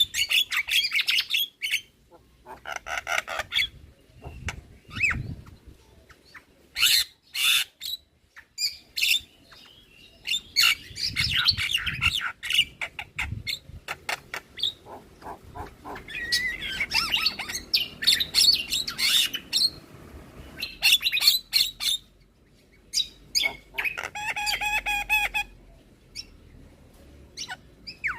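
Javan myna song: bursts of varied chirps, whistles, harsh squawks and rattling clicks, each a second or two long, with short pauses between them.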